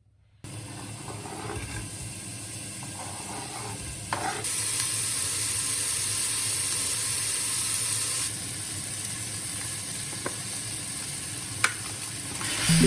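Food frying in a pan, a steady sizzle that grows louder and brighter for a few seconds in the middle, with a few light clicks of a utensil.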